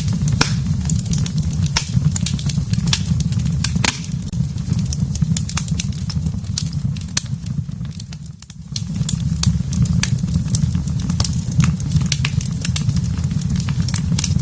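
Fireplace fire crackling: a steady low rumble of flames under many sharp pops and snaps. The fire dips briefly about eight seconds in, then comes back.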